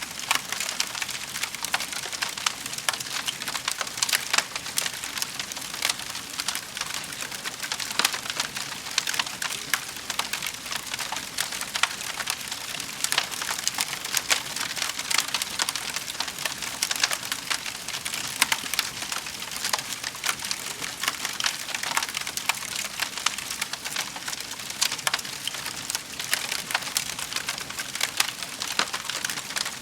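Wood fire in a fireplace crackling, with a steady hiss and a dense run of irregular sharp pops and snaps.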